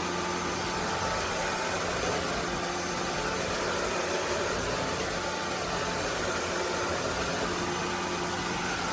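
SunSare X11 cordless stick vacuum running steadily: an even rush of air with a faint steady hum under it.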